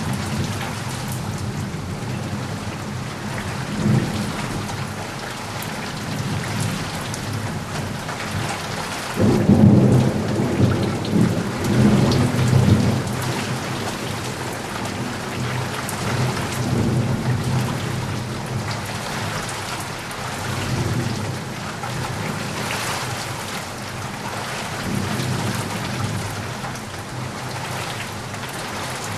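Steady rain hissing, with thunder rumbling low underneath and swelling loudest about a third of the way in before fading back.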